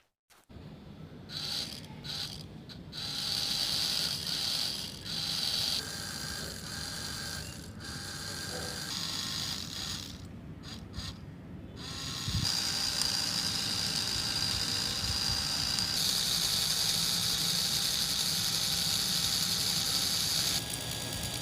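Small electric gear motor whirring steadily, its tone shifting in steps a few times and running louder from about halfway through.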